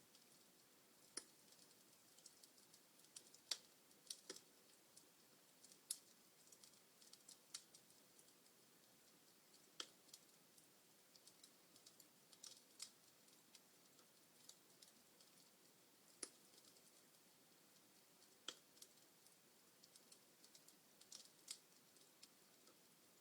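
Wood fire crackling in a fireplace: irregular sharp pops and snaps from burning logs, a few louder than the rest, over a faint steady hiss.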